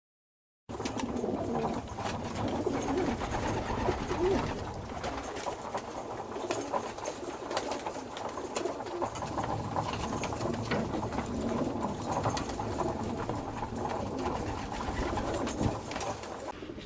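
A flock of racing pigeons cooing in a loft, with many short clicks and scuffs among them, starting abruptly about a second in.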